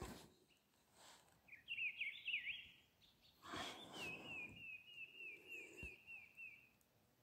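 A wild bird calling faintly: a quick burst of slurred high notes, then a run of about nine or ten evenly spaced descending notes, about three or four a second, with faint rustling noise between.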